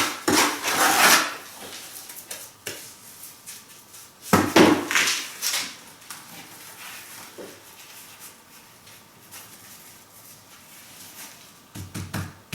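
Scraping and clinking of flagstone and cement mortar being worked by hand. There are two longer scrapes, one at the start and one about four seconds in, with light knocks and clicks between them and a short clatter near the end.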